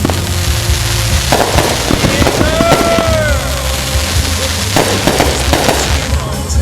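Fireworks going off in quick succession, with dense crackling and many sharp pops. A short whistle rises and falls about three seconds in. Background music with a steady low bass runs underneath.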